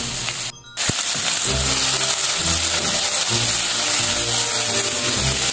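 Pork belly pieces and garlic sizzling in hot oil as they are stir-fried in a nonstick pan, with background music underneath. The sound drops out briefly about half a second in.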